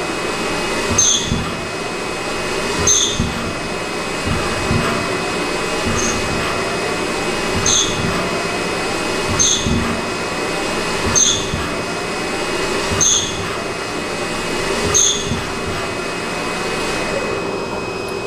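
CNC lathe running with its spindle turning while it cuts a multi-start thread in repeated passes. A short high chirp and a low knock recur about every two seconds, one for each threading pass, over a steady machine hum and faint rising whines of axis motion between them.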